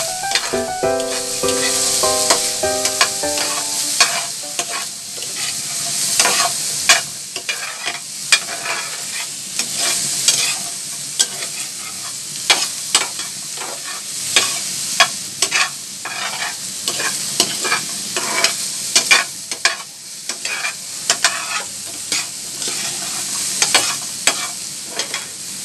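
Sliced okra sizzling in oil in a frying pan, stirred with a utensil that scrapes and clicks sharply against the pan again and again.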